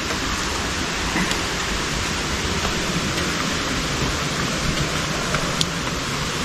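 Waterfall's steady rush of falling water, with a few faint clicks over it.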